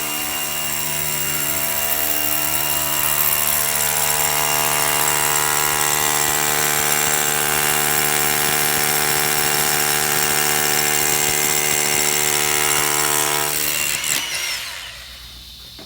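A power tool's motor running at a steady pitch, then winding down and stopping about fourteen seconds in.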